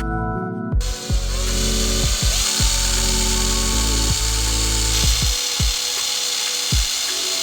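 A power tool starts about a second in and runs steadily, over background music.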